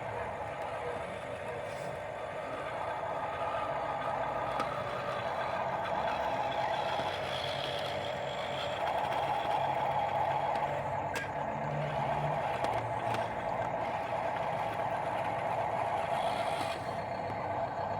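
Heavy diesel work vehicle running steadily, getting a little louder after the first few seconds.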